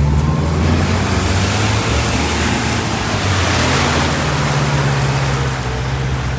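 Jeep engine running steadily at low revs while driving, under a rushing noise that swells to its loudest about three to four seconds in and then eases.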